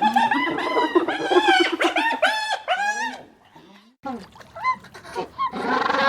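Chickens clucking and calling, a rapid run of short, arched calls that stops about three seconds in. After a brief lull, more animal calls begin.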